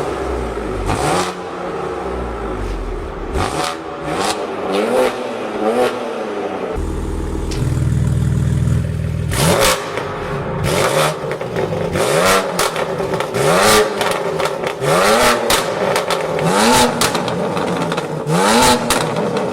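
BMW car engine and exhaust accelerating hard through the gears, the pitch climbing and dropping back at each upshift about every one to two seconds, with sharp cracks at the shifts.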